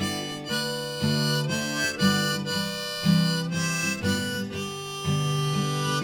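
Harmonica playing an instrumental break, held notes over a steadily strummed acoustic guitar, about two strums a second.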